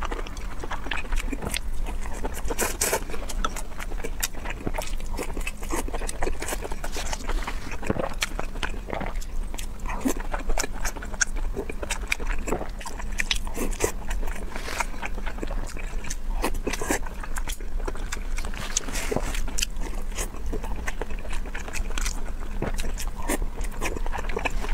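Chewing and wet lip-smacking on soft, fatty braised pork belly, with many irregular short mouth clicks over a low steady hum.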